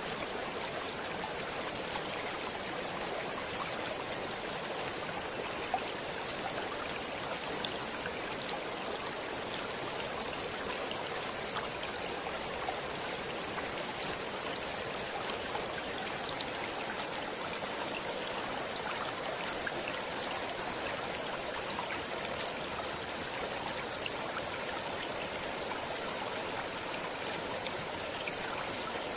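Running water of a stream, a steady, even rush with scattered small splashing ticks.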